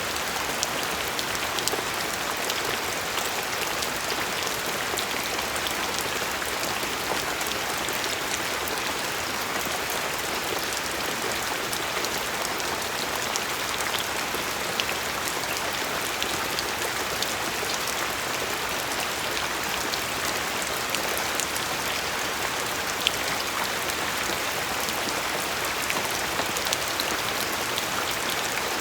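Steady rain falling, an even hiss of drops with scattered sharper drips ticking on a surface.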